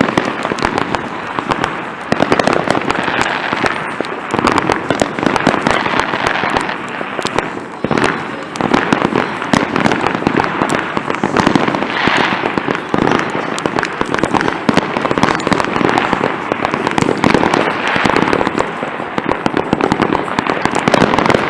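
Fireworks going off in a dense, continuous barrage of cracks and pops.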